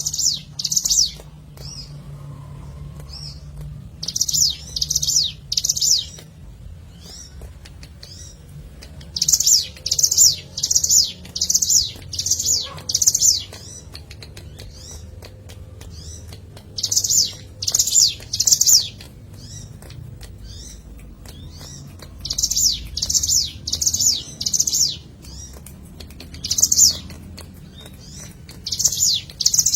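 Hill prinia (ciblek gunung) singing: loud, high, buzzy trilled notes, each about half a second long, given in runs of two to six at roughly two a second, with pauses of a few seconds between runs.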